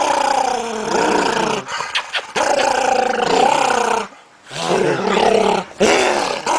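A dog vocalizing in long, drawn-out growling moans that rise and fall in pitch. It comes in four stretches with short breaks between them.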